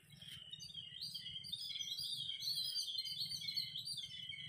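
Birds chirping and singing, a dense run of short, quick notes, over a low steady rumble.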